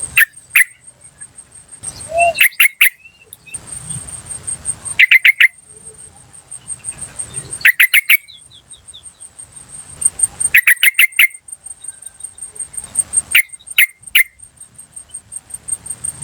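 Yellow-vented bulbul giving quick clusters of three or four sharp 'cuk' call notes, the clusters repeating about every two to three seconds. A steady, high, pulsing insect trill runs underneath.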